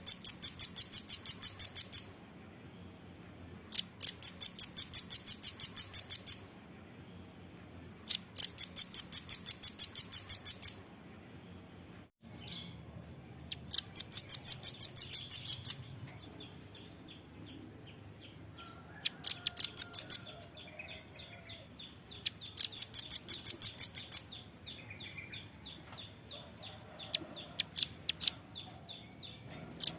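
Velvet-fronted nuthatch (rambatan paruh merah) calling in repeated bouts of rapid, sharp, high notes, about five a second. Each bout lasts around two seconds and comes every few seconds. Fainter, softer twittering runs between the later bouts.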